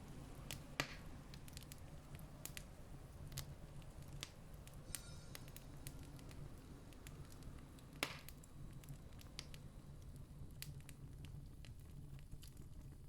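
Campfire crackling: scattered sharp snaps and pops, two of them louder about a second in and about eight seconds in, over a low steady rumble.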